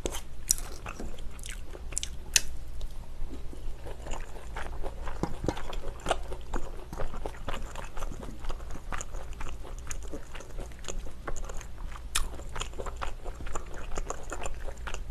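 Close-miked chewing and biting of a mouthful of spicy stir-fried pork (jeyuk bokkeum) and rice. Many small wet clicks and smacks come at an irregular pace.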